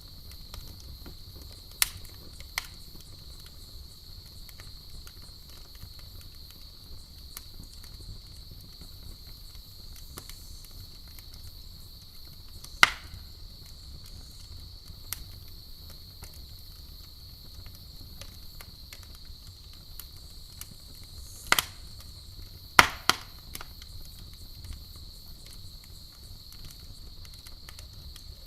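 Campfire burning with scattered sharp pops and crackles, a few seconds apart, two close together about three-quarters of the way through, over a steady high chirring of night insects such as crickets.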